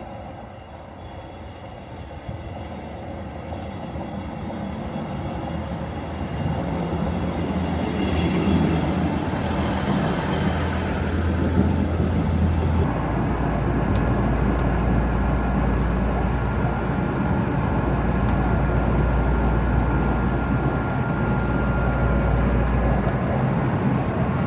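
A train at close range, its low rumble and engine hum growing louder over the first several seconds and then running steadily.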